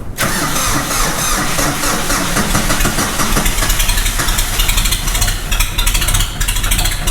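Ford 1720 compact tractor's diesel engine catching on a cold start and then running steadily. It comes in suddenly right at the start.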